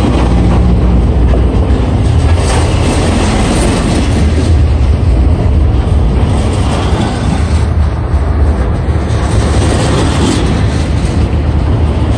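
Double-stack intermodal freight train's well cars rolling past close by: a loud, steady rumble of steel wheels on the rails, with a few faint clacks.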